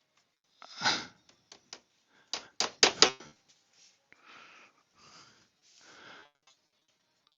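Hands working a wiring harness and its plastic connectors: a swish, then a quick run of sharp clicks and knocks about two and a half to three seconds in, followed by soft breathy rustling.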